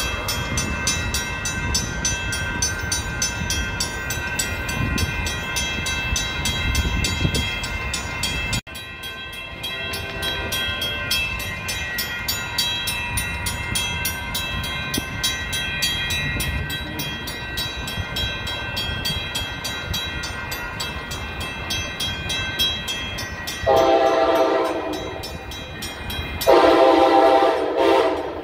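A Pacific Surfliner train rumbling past on the rails. After a cut, a locomotive horn sounds two long blasts near the end, the second louder.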